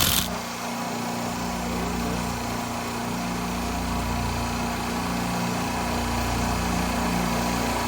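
Steady mechanical hum of running machinery, with a short, sharp clatter right at the start.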